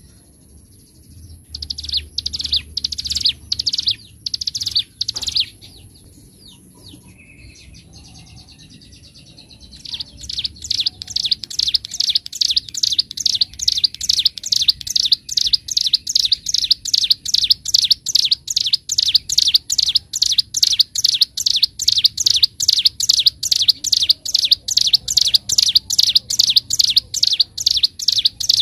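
Ciblek gunung songbird singing: a few loud, sharp repeated notes in the first five seconds, a pause of about four seconds, then from about ten seconds in a long, unbroken run of sharp notes at about four a second, the rapid 'nembak' delivery prized in a singing (gacor) bird.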